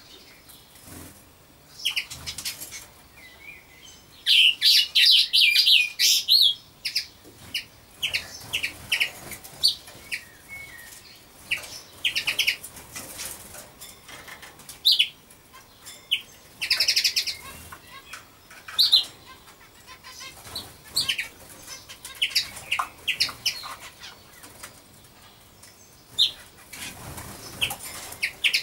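Small birds chirping: short, high chirps scattered throughout, with busier flurries of calls about four to six seconds in and again around seventeen seconds.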